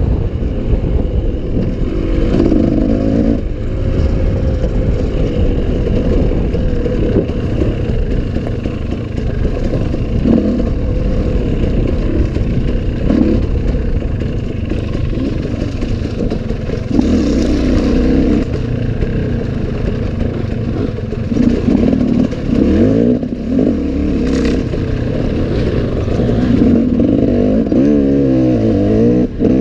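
Enduro motorcycle engine revving up and down over and over as it is ridden along an off-road trail, with some clatter.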